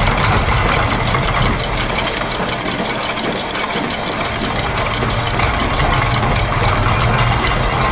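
A dense layered mix of looped factory machine sounds (gears, a press, clockwork springs, ratchets, a sewing machine) clattering over a steady low hum. The low hum thins out for a moment about three seconds in.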